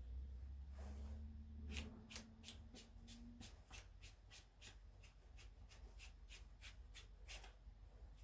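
Faint, light clicks and rustling, a few a second, of hands handling the air filter and its plastic housing on a small engine as the filter element is lifted out. A low hum runs under the first two seconds.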